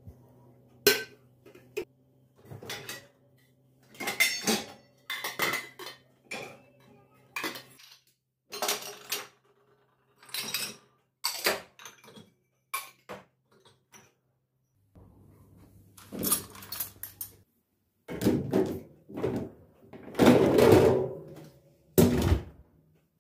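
Dishes and cutlery being handled: a string of separate clinks and knocks with short pauses, and a longer clatter near the end that is the loudest part. A low steady hum runs under the first several seconds.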